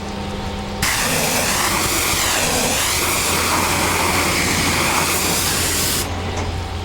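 Pressure washer wand spraying a high-pressure jet of water for about five seconds, starting about a second in and cutting off near the end, with the washer's pump and engine humming steadily underneath.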